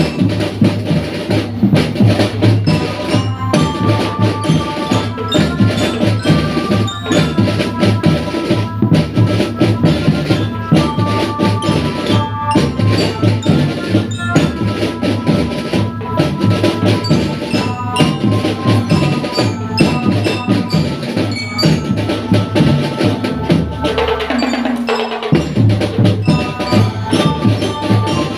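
A school drum band playing: drums beating a steady rhythm under a bell-like melody, with a short falling sweep about 24 seconds in.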